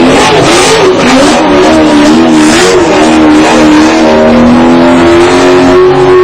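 Competition drift car engine revving hard, its pitch swinging up and down several times in quick succession, with a couple of short bursts of noisy hiss. Near the end it holds a steadier, slowly rising note.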